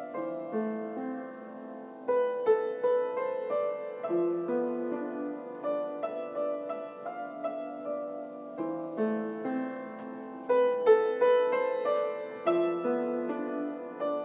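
Piano music: a gentle, slow melody over sustained chords, with no firework bangs audible.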